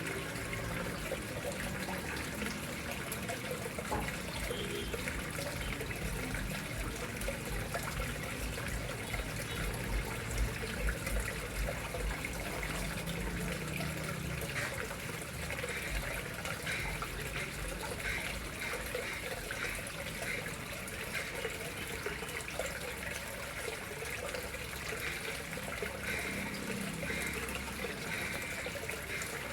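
Water flowing and trickling steadily into a koi pond.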